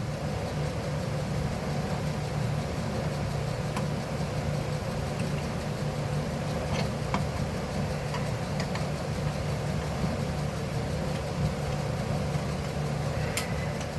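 Steady low mechanical drone, with a few faint clicks scattered through it.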